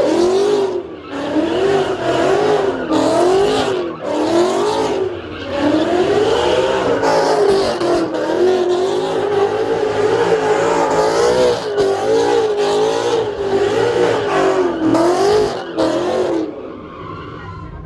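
Car engine held at high revs, its pitch wavering up and down about once a second, with tires squealing as the car spins its wheels in a sideways slide. The sound drops away near the end.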